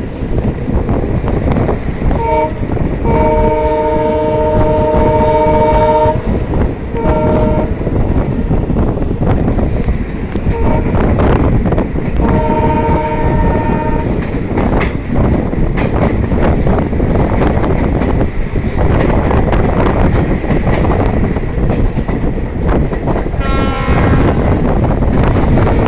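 A loud multi-tone vehicle horn blowing several blasts: a short one about 2 s in, a long one of about three seconds, then shorter ones, and a different-pitched call near the end. A heavy vehicle rumbles steadily underneath.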